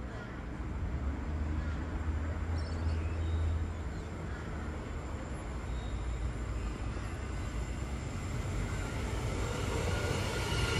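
Train approaching on the line: a low rumble that grows steadily louder toward the end.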